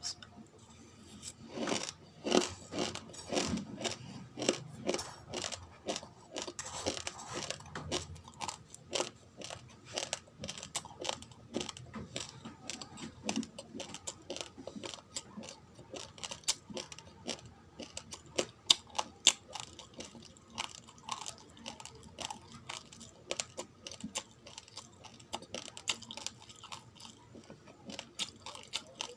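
Mouth chewing uncooked rice grains: a fast, irregular run of sharp crunches and cracks, getting louder about a second and a half in.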